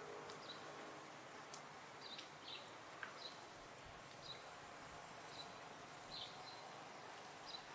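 Faint outdoor background with a small bird chirping now and then: short, high chirps about once a second.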